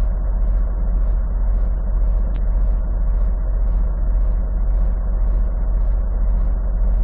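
Semi truck's diesel engine idling, heard from inside the cab as a steady low hum, with a light ticking about twice a second.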